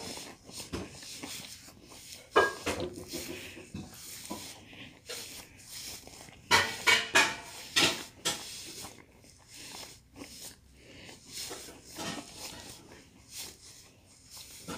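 Close-up chewing of Peach Cheerios cereal in milk, with a spoon knocking against a glass bowl now and then. The loudest knocks come about two and a half seconds in and in a cluster around seven to eight seconds in.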